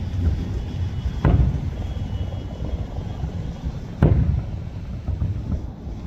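Two fireworks bursts, sharp bangs about a second in and about four seconds in, each with a short echoing tail, over a steady low rumble.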